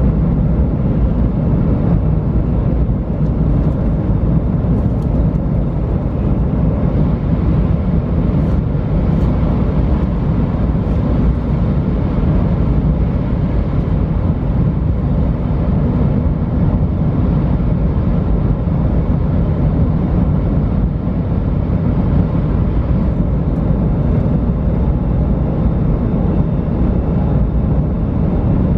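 JR West 500 series Shinkansen running at speed, heard inside the passenger cabin: a steady, even rumble of wheels on rail and air noise that does not change.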